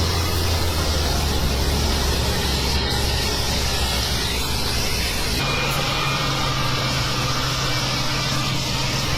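Heavy tractor engine running steadily, with wheel and track noise. About five seconds in the engine note changes abruptly to a higher, steady hum with a faint whine.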